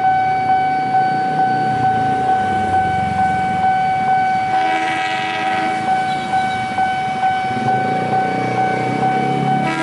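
Railway level-crossing alarm ringing steadily, pulsing about twice a second, over the rumble of a passing train. A train horn sounds briefly about five seconds in.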